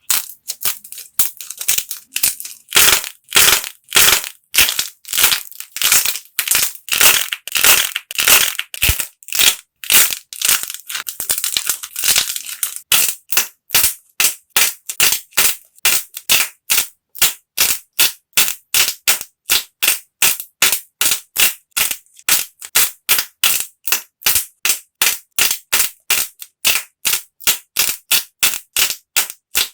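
Hardened clay being cracked and crushed, a rapid run of crisp crunches. They come as fuller, slower crunches at first, then settle into shorter ones at about three a second from around the middle.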